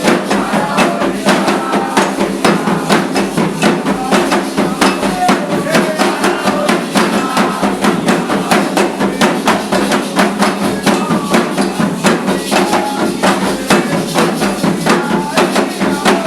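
Candomblé ceremonial drumming: a fast, even beat of sharp strikes about five a second, with voices singing over it.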